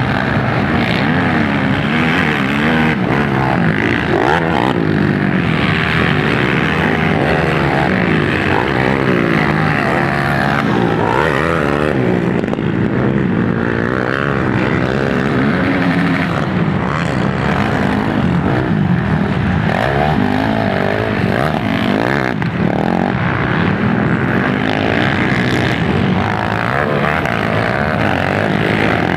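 Several motocross bike engines running on the track, their pitch repeatedly rising and falling as the riders rev and shift, overlapping one another.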